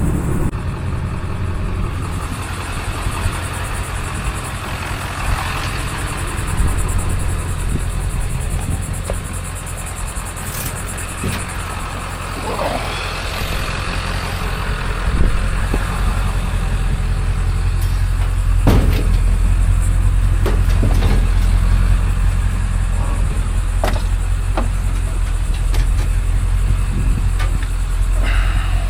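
Steady low rumble of a vehicle's engine and road noise while driving, with a few scattered knocks and rattles.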